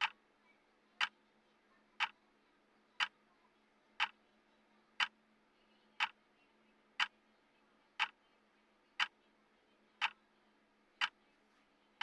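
Timer tick sound, one sharp clock-like tick each second in a steady, even rhythm.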